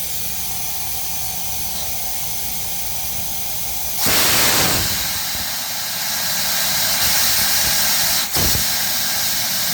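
Air rushing through a Rochester Quadrajet four-barrel carburetor on a vacuum flow bench, a steady hiss. It surges much louder about four seconds in, then settles. Near the end it briefly cuts out and comes back.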